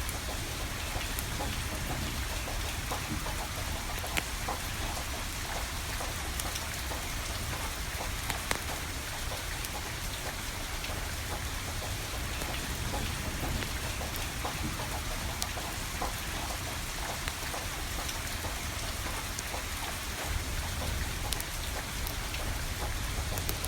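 Steady rain falling, with scattered sharp crackles and pops from burning firewood.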